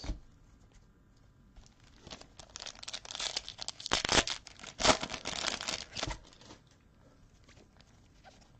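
Trading-card pack wrapper being torn open and crinkled, a crackly ripping that lasts a few seconds with a couple of sharper rips in the middle, then stops.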